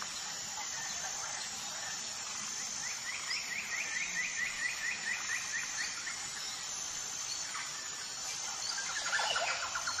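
Birdsong: a rapid trill of evenly repeated notes from about three to six seconds in, and another, lower trill starting near the end, over a steady high hiss.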